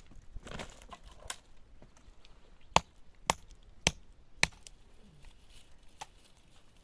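A run of sharp chopping or striking blows, four in a row about half a second apart in the middle, with a fainter one near the end. Some light rustling comes before them.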